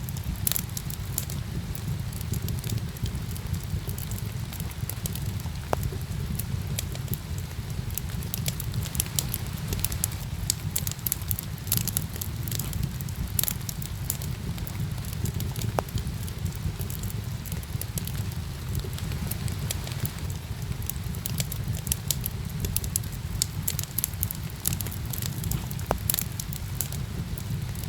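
Wood fire crackling with frequent sharp, irregular pops, over a steady low rush of rain.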